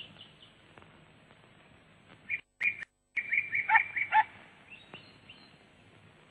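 Small birds chirping, with a quick run of chirps about three to four seconds in and a brief cut in the sound just before it.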